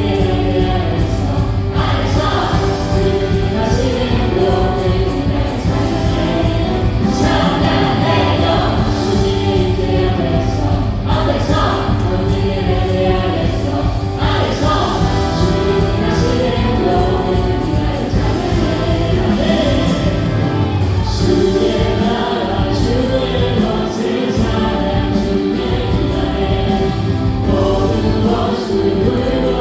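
Live contemporary Korean worship music: several voices singing together over a praise band of keyboards, synthesizer, electric guitar, bass guitar and drums, steady and full throughout.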